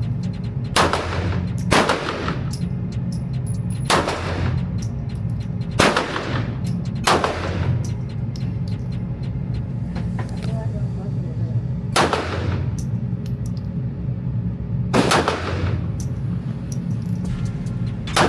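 Semi-automatic pistol firing single shots, about eight of them spaced one to three seconds apart, each with a short ringing tail, over a steady low hum.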